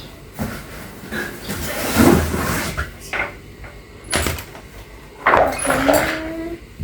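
Cardboard fan box being opened by hand: flaps scraping and packaging rustling, with a few knocks.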